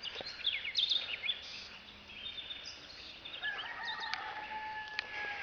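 Birds chirping in quick high calls, then about three and a half seconds in a rooster crows in one long held note.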